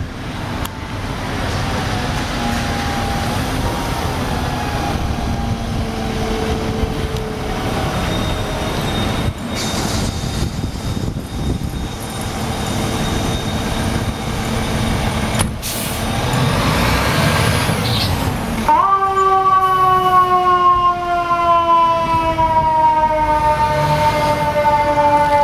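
Fire engine pulling out on a run: its diesel engine running for the first part, then from about 19 seconds in a loud siren wail that slowly falls in pitch.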